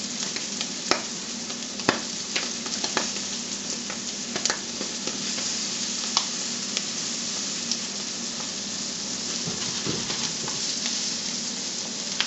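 Rabbit livers sizzling steadily in a hot nonstick skillet, with sharp clicks of a metal fork knocking the pan as the pieces are turned over, mostly in the first half.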